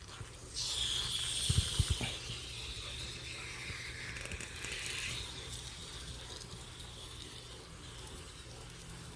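Pressurised gas hissing as a can of A/C Innovator additive is injected through a charging hose into a car's air-conditioning system, starting suddenly and fading over about five seconds, with a few soft knocks near the start.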